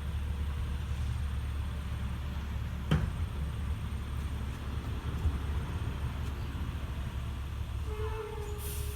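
Recycling truck's engine running steadily with a low rumble, with a single sharp knock about three seconds in and a brief hiss near the end.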